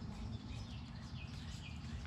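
A bird chirping several times in short, high, falling notes over a steady low hum.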